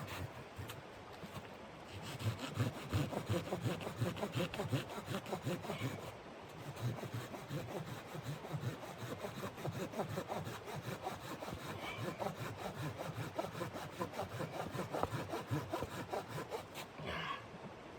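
Hand saw cutting wood in quick back-and-forth strokes, about three a second. It starts about two seconds in, eases briefly around six seconds, and stops near the end.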